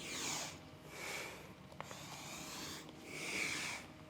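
A person breathing audibly through the nose while flowing through a yoga vinyasa: about four soft breaths in and out. There is a faint click a little under two seconds in.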